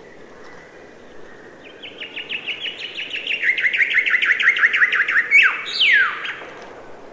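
A songbird singing a fast trill of about twenty quick falling notes that grows louder over three and a half seconds, ending in two sharper, longer falling notes.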